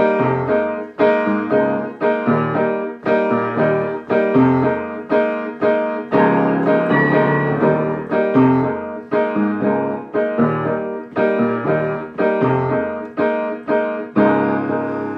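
Solo piano playing a song's introduction: rhythmic chords with a bass line, struck about twice a second.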